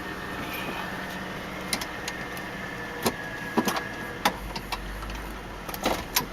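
Lincoln Town Car limousine's 4.6-litre V8 idling steadily, with a thin steady whine that stops about two-thirds of the way through and a few sharp clicks scattered throughout.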